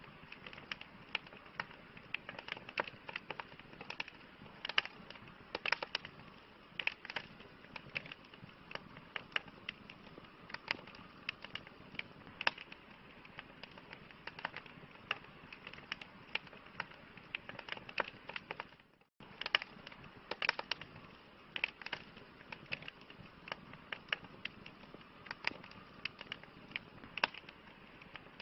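Campfire crackling: a low steady hiss of burning wood with frequent irregular pops and snaps. The sound cuts out for an instant about two-thirds of the way through.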